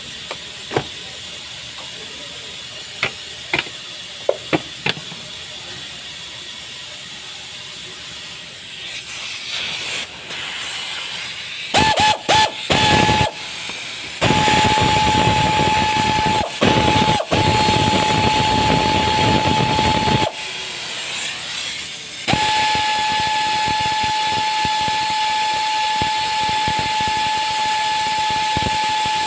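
Rushing air hissing with a steady high whistle, starting and stopping several times in the second half, after a stretch of quieter steady hiss broken by a few sharp clicks.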